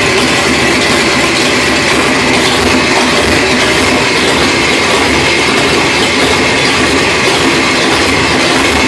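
Chevrolet 454 big-block V8 on an engine run stand, running steadily and loud through open long-tube headers with no mufflers.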